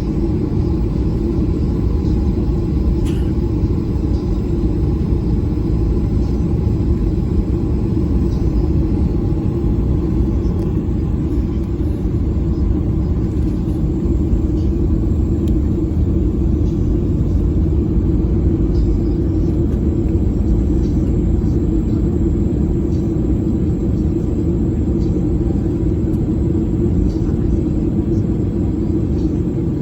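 Steady low rumble of a Boeing 737's engines heard from inside the passenger cabin, even and unchanging throughout.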